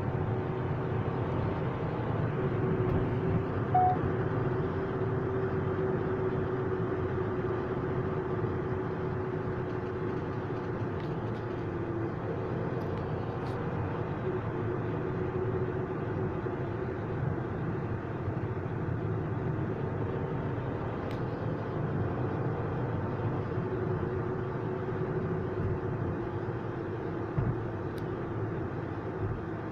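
A vehicle engine running steadily, with a low hum that wavers slightly in pitch.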